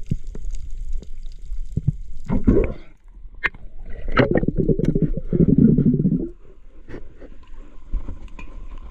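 Water splashing and gurgling close to the microphone, in irregular bursts; the longest and loudest lasts about two seconds, starting about four seconds in.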